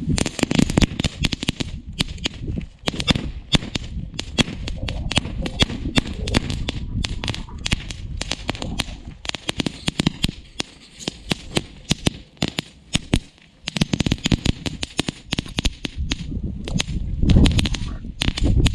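Crackling firework fountain going off: a dense, irregular stream of sharp crackles and pops, with a low rumble that grows near the end.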